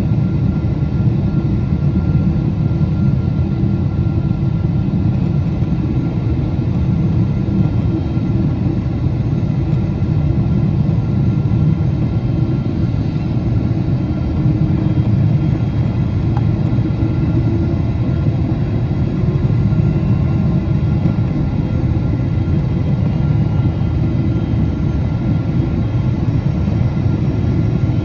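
Steady low drone of a Boeing 777-200 in flight, heard from the cabin: engine and airflow noise with a faint steady whine above it.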